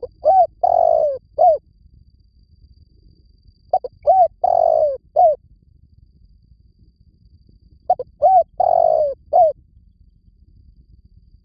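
Spotted dove cooing: the same phrase three times, about four seconds apart. Each phrase is two short coos, a longer drawn-out coo that falls at its end, and a short final coo.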